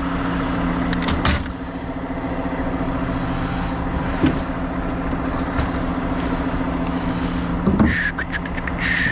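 A truck engine idling steadily, with a few sharp metallic clicks and knocks and two short high squeaks near the end.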